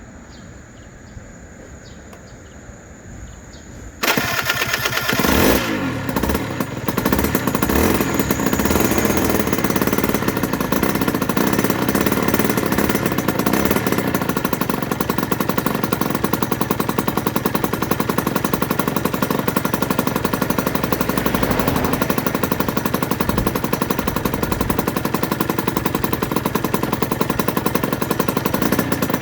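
Aprilia RS125 two-stroke single-cylinder engine starting up about four seconds in, revving briefly, then idling steadily with a rapid, even beat.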